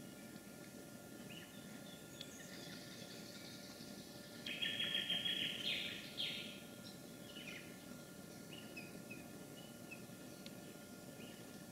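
Birds calling: scattered faint high chirps, and a loud burst of rapid repeated high notes lasting about two seconds, from about four and a half seconds in.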